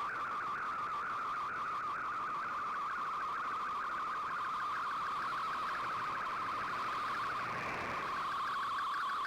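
MFSK digital data signal from a shortwave broadcast received on an Icom IC-R8600 receiver: a steady, rapid warble of hopping tones in a narrow band over faint static.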